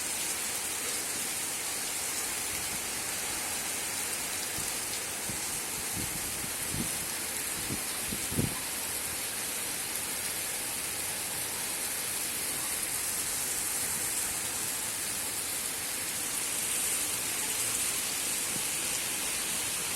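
Steady rain falling, an even hiss. A few short dull thumps come about six to eight seconds in, the last one the loudest.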